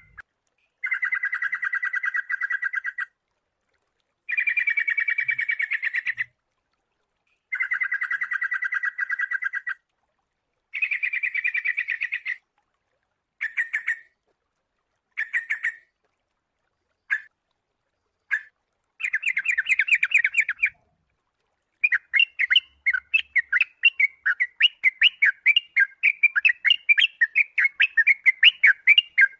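Sooty-headed bulbul (kutilang) calling in phrases of rapid repeated chattering notes, each about two seconds long with short silences between. Shorter bursts come midway, then a long unbroken run of chattering near the end.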